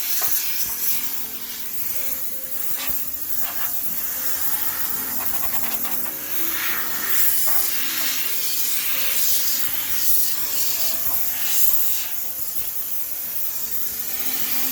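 High-pressure steam sterilizer spraying into a laundromat washing machine, hissing in uneven surges that swell and fade. Faint background music plays under it.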